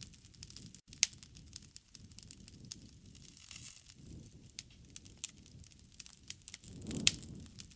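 Wood fire crackling with frequent sharp pops, over a low rush of flames that swells and fades.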